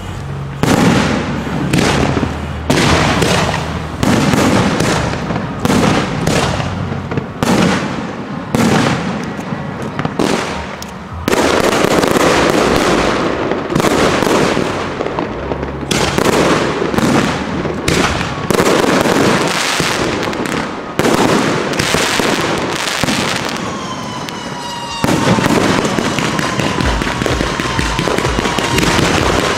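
Aerial fireworks display: a rapid run of launches and shell bursts, one bang after another every half second to a second, with crackle between them. Over the last few seconds a steady tone slowly falling in pitch runs under the bursts.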